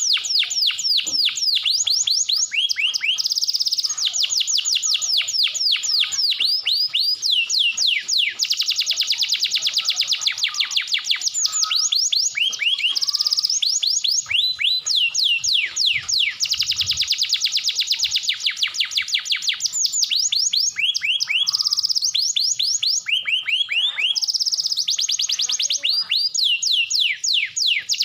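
Domestic canary singing a long, nearly unbroken song: fast trills of high, downward-sweeping notes, several a second, in phrases that keep changing with only brief pauses.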